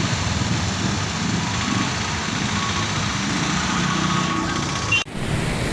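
Motor vehicle engine running steadily under an even rush of noise. It breaks off abruptly about five seconds in.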